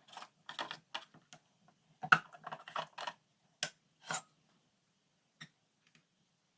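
Quick run of light clicks and clatters from containers and utensils being handled while packing lunchboxes, thinning out after about four seconds with one last click near the end.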